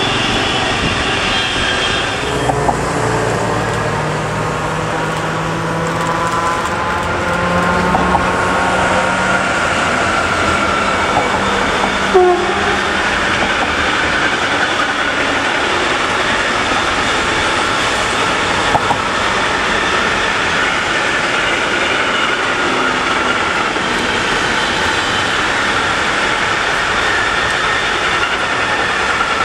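Container freight train rolling past, its wagons' wheels running steadily on the rails with a few sharp knocks, mixed with road traffic passing alongside.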